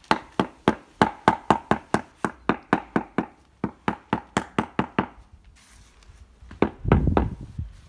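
Rapid sharp knocking, about four strokes a second for five seconds: a slate stone being tapped down to bed it into fresh mortar. A louder low thud near the end.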